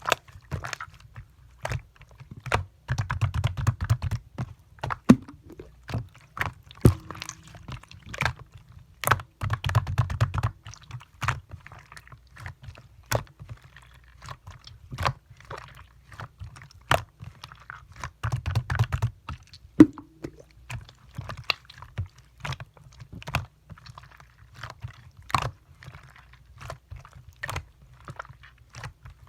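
Clear slime being squeezed, folded and poked by hand, making irregular sharp clicks and pops, with a few stretches of denser, lower squelching.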